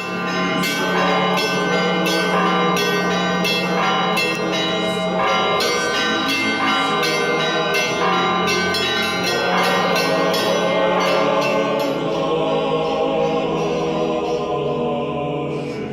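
Church bells ringing a quick peal of repeated strikes that ring on over a steady low tone, thinning out in the last few seconds.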